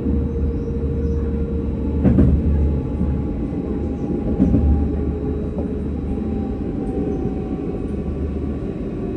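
Paris T2 tram running on its rails: a steady low rumble with the electric motors' whine, which falls slowly in pitch over the second half. A sharp knock sounds about two seconds in and another more than four seconds in.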